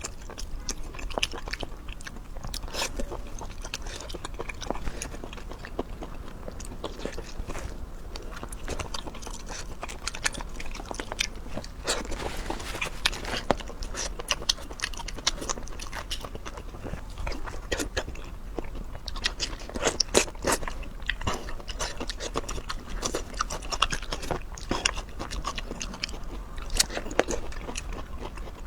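A person eating close to the microphone: biting and chewing, with many quick, irregular crunches.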